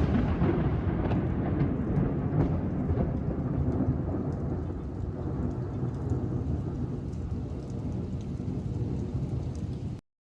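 Long rolling rumble of thunder over steady rain, with faint drop ticks above it; it cuts off suddenly about ten seconds in.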